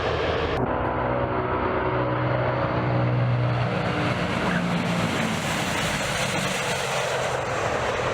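Tu-95 turboprop engines with their contra-rotating propellers running with a loud, steady drone and several held tones. The sound changes abruptly about half a second in, after which the tones shift slightly in pitch.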